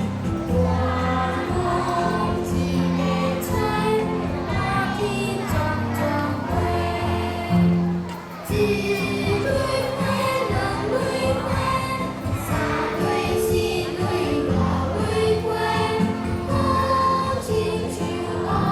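Choir singing a song with instrumental accompaniment, sustained bass notes underneath the voices.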